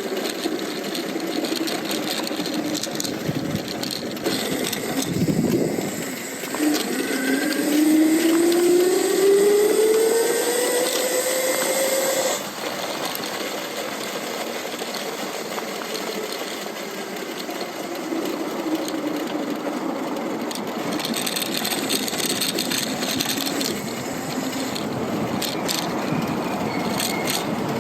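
Lightning Rods e-bike drive motor whining and rising in pitch as the bike speeds up for several seconds, then cutting off suddenly. Steady wind and road noise runs underneath.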